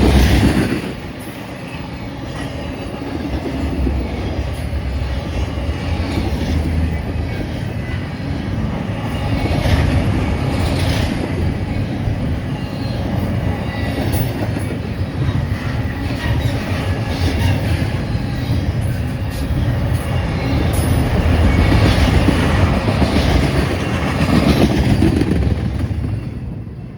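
Cars of a fast intermodal freight train rolling past at speed: a steady rumble of wheels on rail with scattered clacks over the rail joints. The sound eases a little about a second in and falls away at the very end.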